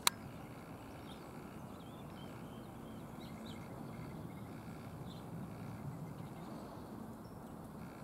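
Faint, scattered high chirps of small birds over a steady low outdoor background noise, with one sharp click right at the start.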